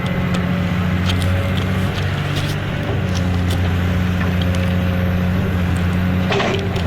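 A steady low motor hum, with scattered light clicks and scrapes over it.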